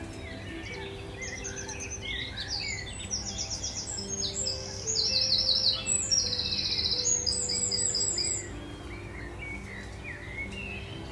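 A songbird singing: bursts of fast, repeated trilling notes and short whistles, loudest from about four seconds in until a little past eight seconds, when the song stops.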